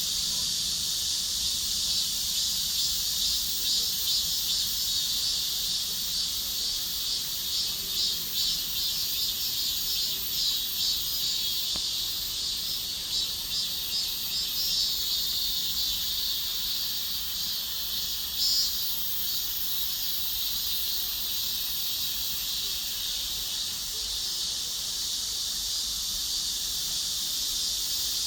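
Chorus of many cicadas calling together: a dense, high, shrill drone, with a fast pulsing running through it over the first half.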